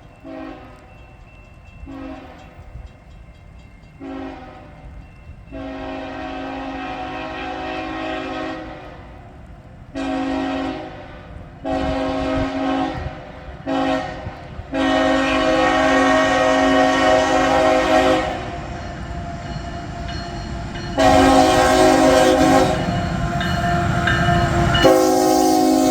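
Freight locomotive air horn sounding a series of short and long blasts, several held for about three seconds, growing louder as the train approaches. The low rumble of the locomotive builds under the last blasts.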